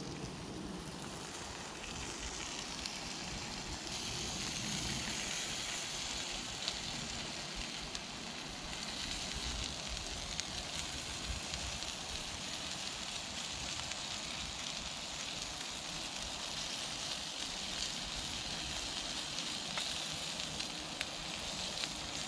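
Burger patties sizzling on a newly seasoned cast iron griddle over a gas stove burner: a steady frying hiss, with a few light clicks of the tongs.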